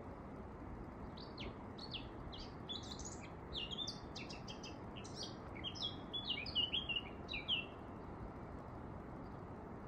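A songbird singing a quick run of short, high, mostly falling notes for several seconds, loudest near the end, over a steady low background hiss.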